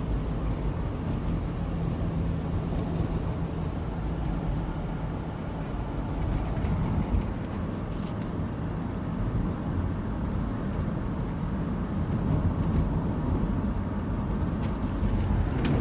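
A Chevrolet van driving, with steady engine and road noise. No clunk or rattle comes from the rear shock bolt, whose loose fit has been taken up with a wire wrapped around it.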